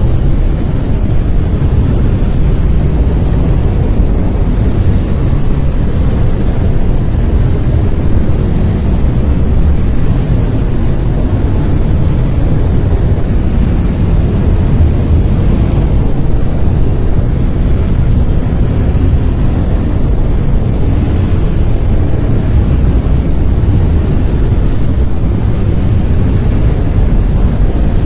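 Synthetic brown noise: a steady, deep rumbling hiss with its energy weighted toward the low end, unchanging throughout.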